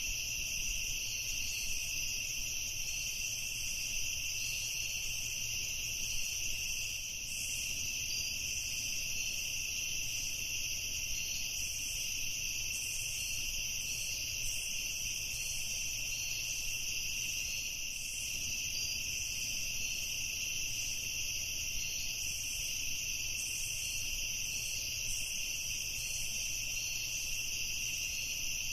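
An evening chorus of crickets: a steady, continuous high-pitched shrilling at several pitches at once.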